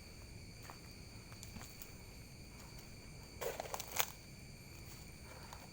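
Crickets and other night insects trilling faintly and steadily. About three and a half seconds in there is a short scuffing rustle that ends in a sharp click.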